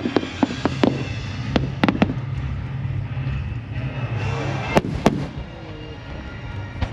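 Aerial fireworks bursting: a quick run of sharp cracks in the first two seconds, then two louder bangs about five seconds in, over a steady low rumble.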